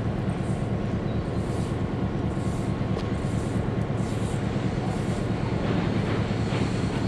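Diesel locomotive engine running with a steady low rumble, with a faint hiss pulsing high above it about once a second.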